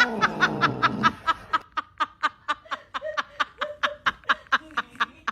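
A person laughing hard: a louder opening outburst, then a long run of quick, even "ha" bursts at about five a second.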